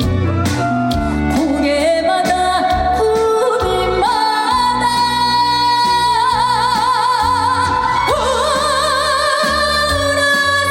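A woman singing a Korean trot song over band backing, holding long notes with a wide, even vibrato.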